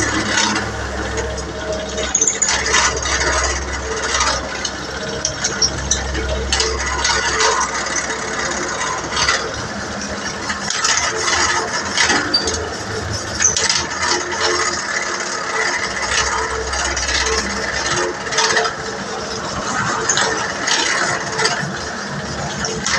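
Irregular metallic knocking and rattling from hand work on a truck clutch plate, over a steady low machine hum that comes and goes.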